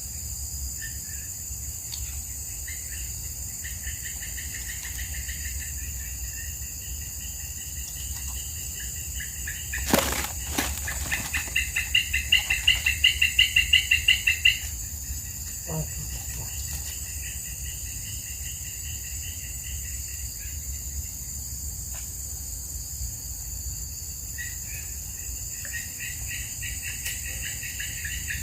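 A bird calling in rapid trills of quick repeated notes, loudest in a run of about eight notes a second a little before the middle, over a steady high insect hiss. There is one sharp knock just before the loudest trill.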